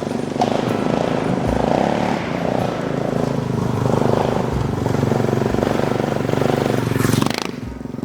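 Suzuki DR650 single-cylinder engine running steadily under way, with wind rush. A louder rush about seven seconds in, then the sound drops away near the end.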